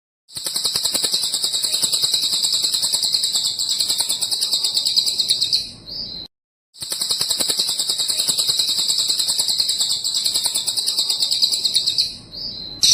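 Cililin bird singing: two long, rapid, high-pitched trills, each lasting about five to six seconds, with a short pause between them.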